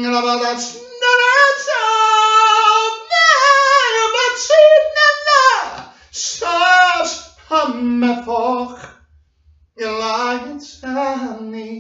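A high voice singing alone, without accompaniment, in short phrases of held notes and sliding pitches with brief breaks between them.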